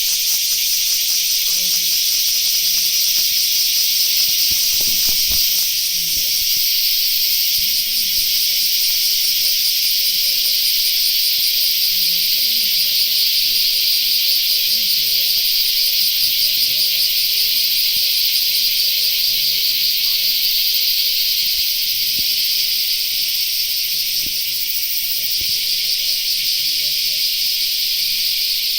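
Loud, steady high-pitched hissing buzz with a fast pulsing texture, with faint low voices underneath.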